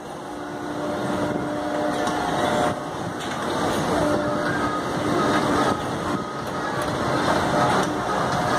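Busy outdoor ambience: a dense, steady rumble with faint scattered voices, fading in over the first couple of seconds.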